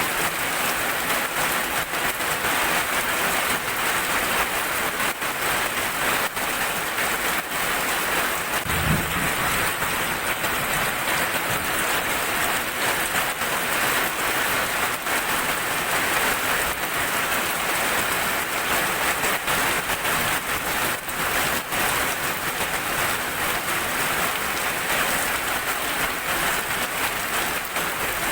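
Heavy rain falling steadily, with many sharp drop ticks on a hard surface. A short low thump about nine seconds in.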